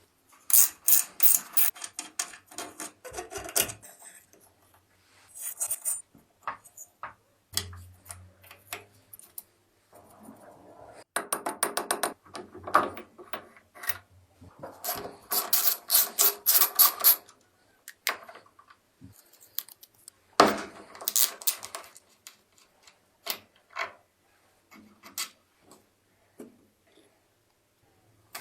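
Hand work on small metal moped parts: several separate bouts of rapid clicking and metallic clatter, each lasting one to three seconds, with quiet pauses between.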